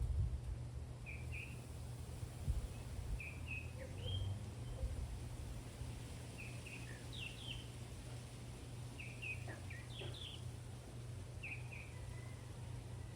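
Birds calling in short, quick chirps, mostly in pairs, every second or two, over a steady low rumble of outdoor background noise.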